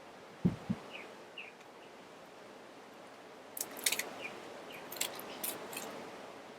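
Two soft thumps shortly after the start, then a run of sharp clicks and light rattles in the second half, from utensils and food being handled. A few faint bird chirps can be heard in between.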